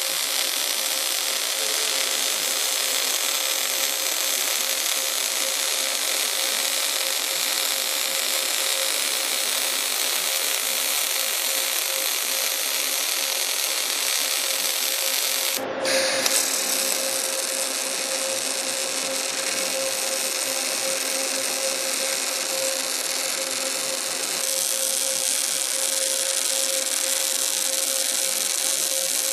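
Robotic MAG arc welding: a steady, even hiss with a constant tone running through it. It is broken briefly by a cut about 16 seconds in, then carries on.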